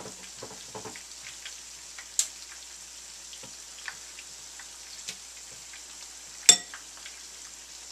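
Bacon-wrapped chicken sizzling in shallow hot grease in a skillet, a steady hiss with scattered small crackles and pops. A sharper click stands out about two seconds in, and a louder one a little after six seconds.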